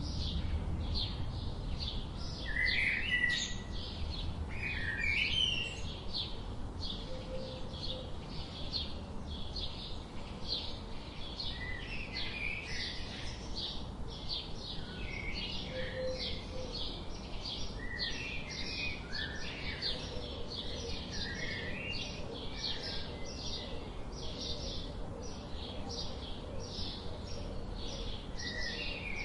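Birds chirping: a steady rapid run of short high chirps, with lower, fuller chirps breaking in now and then.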